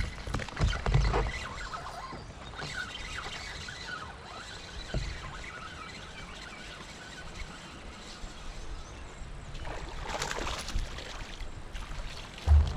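Water sloshing and splashing around a kayak, with knocks from handling, while a small smallmouth bass is played and landed; a louder burst of noise comes about ten seconds in.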